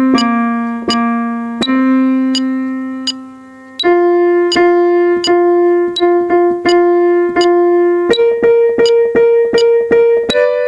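Piano-toned keyboard playing the alto line of a choral piece as a single melody, mostly one note at a time. It holds a long note about two seconds in, then repeats notes at about two a second, climbing step by step to higher pitches in the second half.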